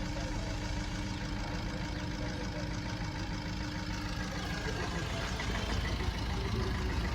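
Maruti Suzuki Swift Dzire's engine idling steadily, as it does while running through an engine carbon cleaning, getting slightly louder near the end.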